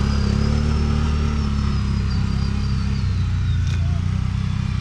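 ATV engine running under steady throttle through mud, with a thin high whine that rises and then falls away.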